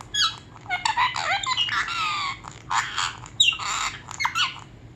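Pet parrot chattering and squawking: a quick run of high, gliding calls and whistles, with a short pause near the end.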